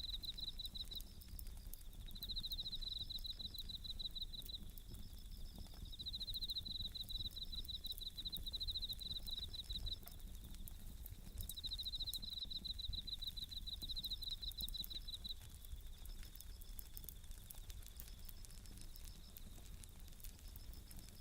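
Japanese bell crickets singing in repeated ringing trills about a second long, over the soft crackle of a wood fire.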